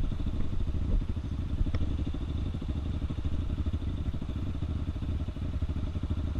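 Trail motorcycle's single-cylinder four-stroke engine running steadily at low revs, an even, rapid beat of firing pulses.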